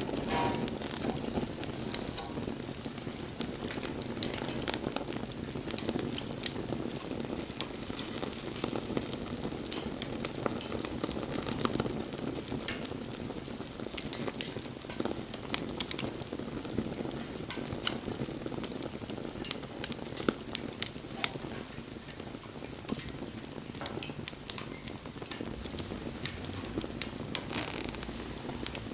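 Wood bonfire burning, with a steady hiss of flames and frequent sharp, irregular crackles and pops from the burning wood.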